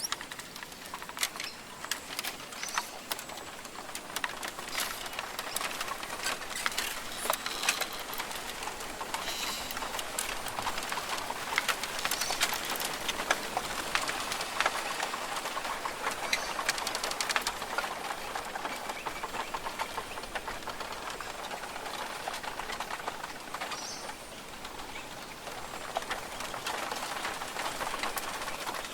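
Rainforest ambience: birds calling now and then over a steady hiss, with many short sharp clicks and ticks throughout.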